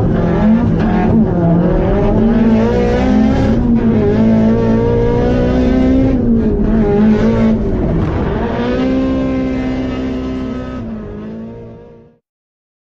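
Car engine revving up and down again and again, fading out near the end into silence.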